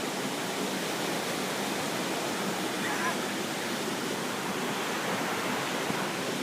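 Steady rushing of water from the Pistyll Rhaeadr waterfall.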